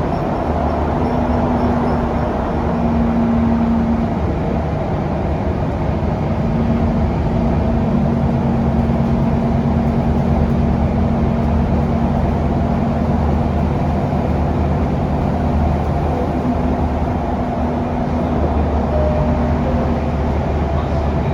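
Scania K360UA articulated city bus heard from inside the cabin while under way: its Scania DC9 engine and ZF Ecolife automatic gearbox run steadily over tyre and road noise. The engine note steps in pitch a few times, about 8 and 16 seconds in.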